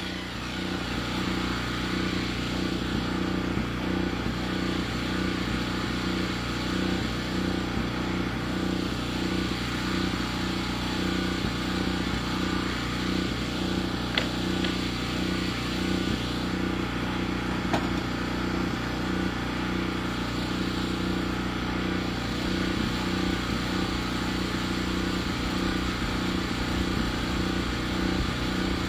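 Engine of a portable sawmill idling steadily, not cutting and not under load, with an even pulsing beat.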